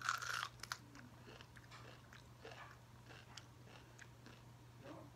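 A bite into a piece of raw hot pepper, with a crunch at the start, then chewing with small faint clicks through the rest.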